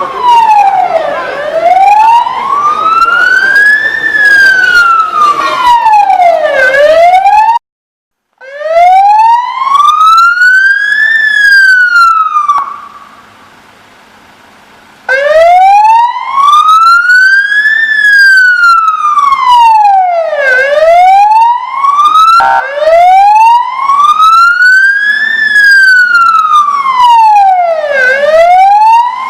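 Emergency vehicle siren in a slow wail, its pitch rising and falling about every five and a half seconds. It breaks off briefly about eight seconds in and again for about two seconds near the middle, then resumes.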